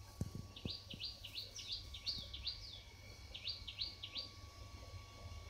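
A small bird chirping: a run of about ten quick, high notes, each sweeping downward, then a shorter run of four about a second later.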